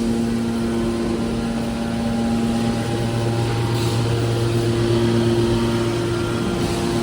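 Aluminium can baler's hydraulic motor and pump running with a steady hum; the tone shifts about three seconds in, when a lower hum grows stronger.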